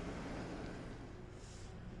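Soft rustling of washi tape and its packaging being handled, with a brief higher hiss of rustle about one and a half seconds in.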